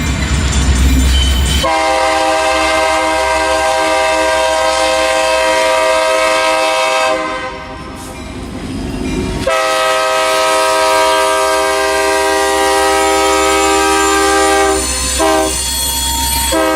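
Nathan K3LA three-chime air horn on a CN SD60 locomotive sounding a crossing signal: two long blasts, a short one, and a further blast starting near the end, over the train's rumble at the start.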